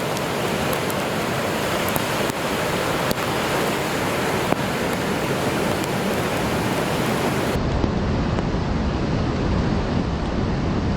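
Ocean surf with wind, a steady rushing noise. About eight seconds in it changes abruptly to a heavier low rumble with the highs cut off, typical of wind buffeting the microphone.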